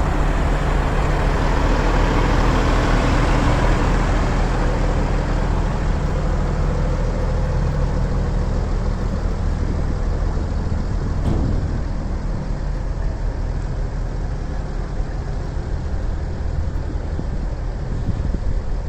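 A truck engine running steadily with a low hum, loudest in the first few seconds and easing off after about twelve seconds.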